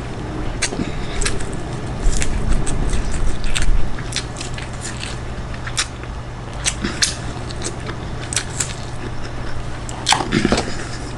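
Close-miked eating: wet chewing and mouth smacks from a mouthful of rice and stir-fried chicken, a scatter of short sharp clicks over a steady low hum.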